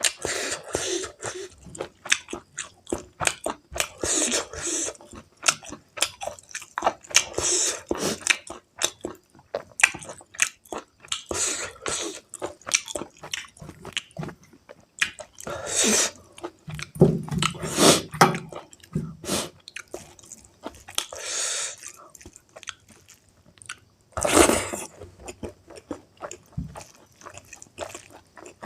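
Close-miked chewing of pork meat curry with rice: a steady stream of quick mouth clicks, with several louder bursts lasting about a second each.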